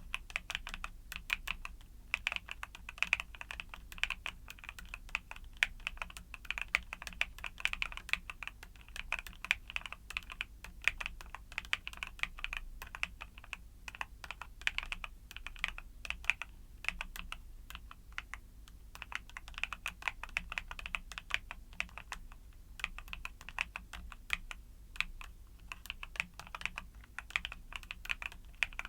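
Steady, fast typing on a YUNZII mechanical keyboard with Cocoa Cream switches: a dense run of soft, close-up keystroke clacks.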